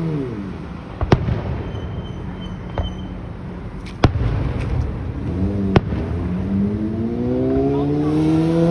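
Fireworks going off in sharp bangs about one, four and six seconds in. A motor vehicle's engine slows at the start, then revs up steadily from about five seconds on.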